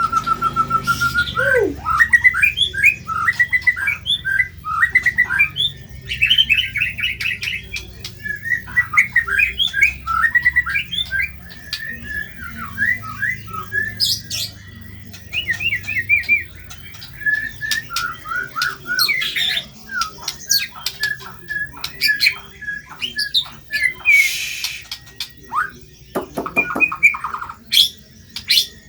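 Murai batu (white-rumped shama) singing a fast, coarse song of rapid chattering and squawking notes, opening with a held whistle.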